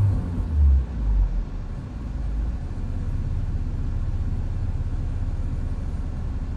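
2006 Mini Cooper S's supercharged 1.6-litre four-cylinder engine on a cold start, its revs dropping back after a blip in about the first second and a half, then settling to a steady idle.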